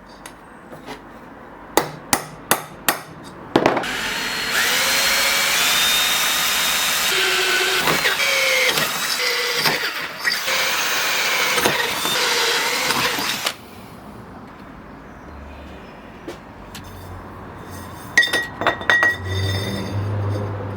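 A few sharp clicks, then a power tool runs for about ten seconds with a wavering whine as it works the material, and stops suddenly. Scattered clicks and knocks follow near the end.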